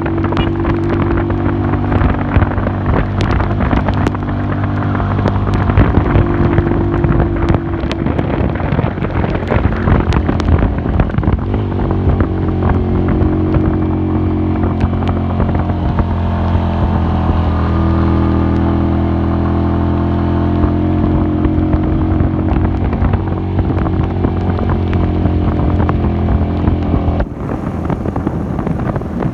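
Classic Earl 150 cafe racer motorcycle engine running at a steady cruising speed while riding, its pitch holding with a few small shifts, and a change in the sound near the end.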